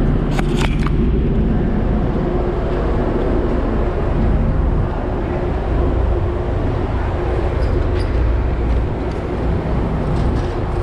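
Steady low rumble of a passenger train standing at the platform with its engine running, with a few light clicks about half a second in.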